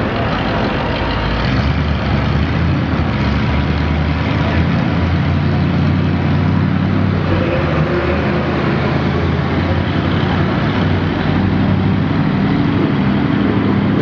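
Pickup truck engine running hard at steady high revs, the sound of a truck under load pulling a sled.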